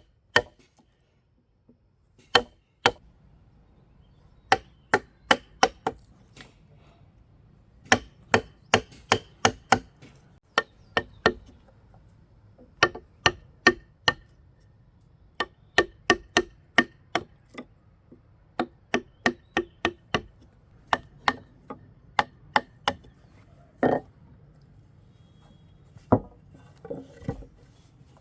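Repeated sharp strikes of a hand tool on wood, in runs of several blows about three a second with short pauses between runs.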